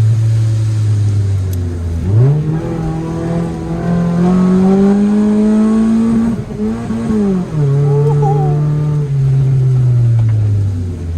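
Car engine driven through gears: its note falls off, jumps up about two seconds in and climbs steadily, drops at a gear change a little past six seconds with a brief blip, then falls away slowly toward the end.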